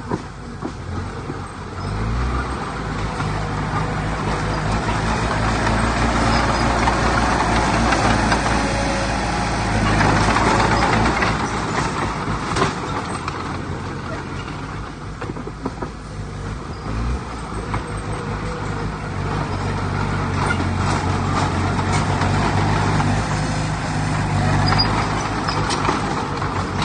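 Heavy diesel engine of an earthmoving machine running under load. It comes up about two seconds in, eases off around the middle and builds again later, with a clattering mechanical din over it.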